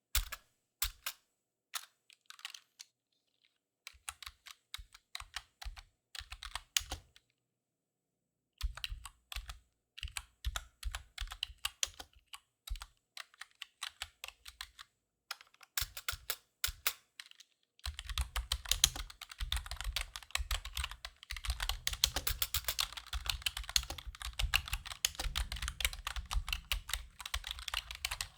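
Typing on a computer keyboard, heard close up. Short runs of keystrokes are separated by brief pauses, then fast, unbroken typing starts about two-thirds of the way in.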